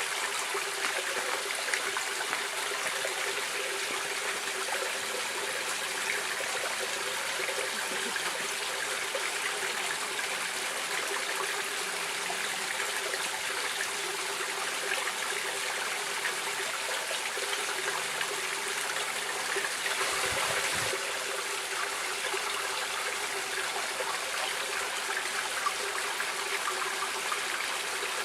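Stream water flowing and trickling steadily, an even rushing with small splashes, briefly a little louder about twenty seconds in.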